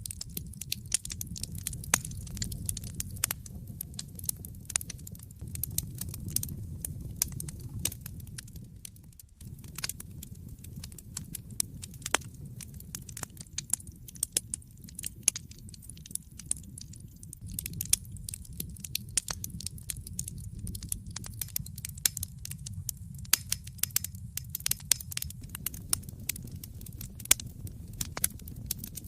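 Fire in a fireplace crackling, with many irregular sharp pops and snaps over a low steady rumble of the flames. The sound drops away briefly about nine seconds in.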